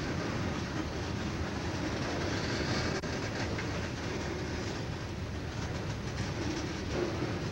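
Freight train's boxcars and tank cars rolling past: a steady noise of steel wheels on rail, with short clicks as the wheels cross rail joints.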